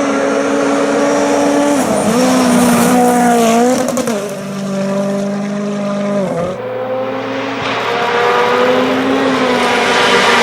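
Racing engine at high revs. Its pitch holds, wavers and drops sharply about two, four and six and a half seconds in, as the driver comes off the throttle or shifts.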